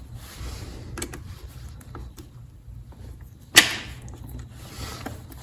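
Gear shifter of a 2021 KTM 300 XC-W TPI being clicked into the next gear: a few light clicks, then one sharp metallic clack about three and a half seconds in, on a gearbox whose shift drum has broken.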